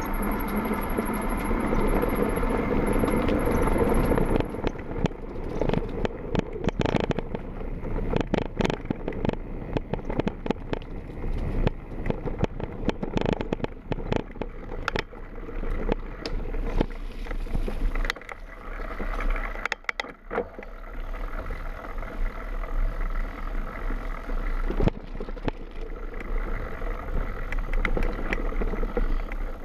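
Mountain bike being ridden down a rough trail, its frame and chain rattling and clattering with irregular knocks over bumps, over steady tyre and wind noise.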